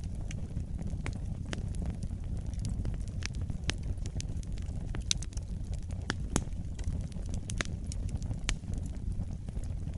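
Wood fire in a fireplace burning with a steady low rumble of flames and irregular sharp crackles and pops.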